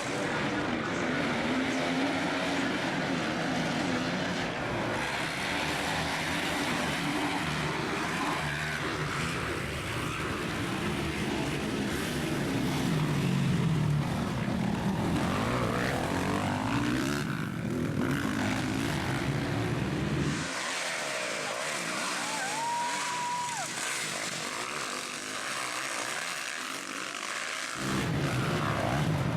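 Several motocross motorcycles racing, their engines revving and droning as they run the track. For several seconds past the middle the sound turns thinner, without its low end, before the full engine noise returns near the end.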